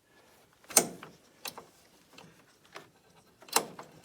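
A few separate metal clicks and knocks from hand tools and parts as a Yamaha RS Viking Pro snowmobile's gearbox is taken apart, the loudest just under a second in.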